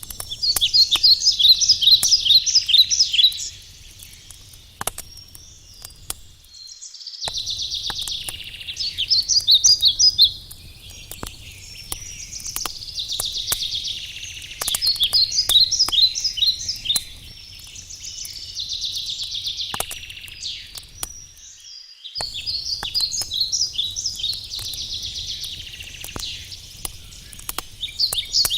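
A songbird singing short phrases of rapid high notes, repeated about every five seconds, over scattered sharp crackles from a wood campfire.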